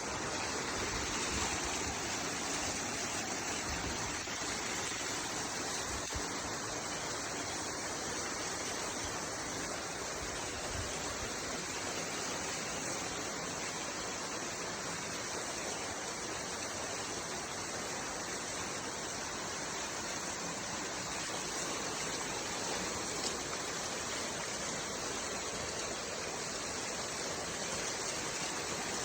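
Waterfall's falling water rushing steadily, an even, unbroken sound.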